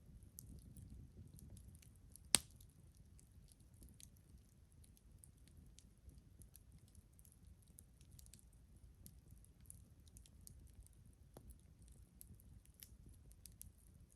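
Wood fire crackling quietly, with small scattered ticks and one sharp loud pop about two seconds in.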